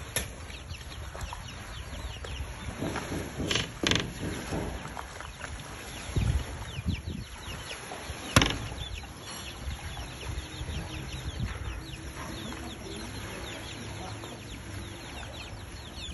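Birds chirping steadily in many short, quick chirps, with a few sharp knocks, the loudest about eight seconds in.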